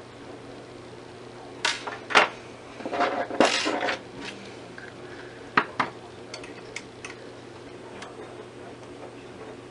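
Small metal hardware and tools clinking and clattering as they are handled during assembly of an idler bearing. There are two sharp clinks about two seconds in, a busier clatter from about three to four seconds, and two more clinks just before six seconds.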